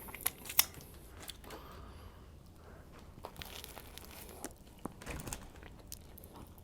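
Close-miked crinkling and tearing of a paper sandwich wrapper, with scattered sharp crackles, the loudest about half a second in.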